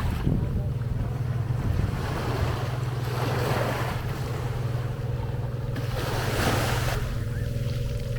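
Sea waves washing in slow surges, every few seconds, over a steady low motor hum from a boat on the water. Some wind buffets the microphone.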